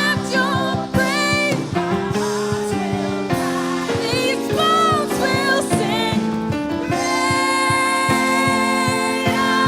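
Gospel praise and worship song: a solo voice sings a wavering melody over steady held chords, settling into a long sustained note about seven seconds in.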